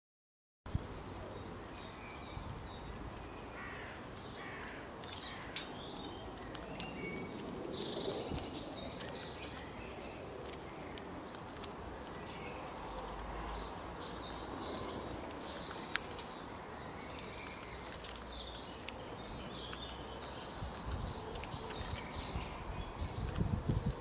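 Outdoor ambience of small birds chirping in repeated bursts over steady low background noise. Silent for the first half-second or so.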